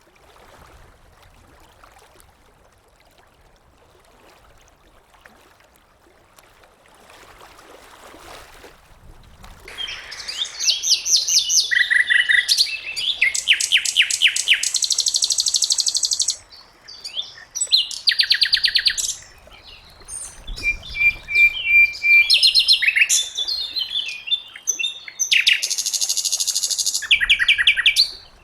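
Sikatan londo flycatcher singing: after about ten seconds of faint background, long runs of fast, rapidly repeated high chirps and trills, broken by a few short pauses.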